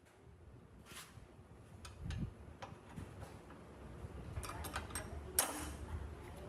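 Scattered light clicks and taps over a low rumble, coming more often in the second half, with the sharpest click about five seconds in.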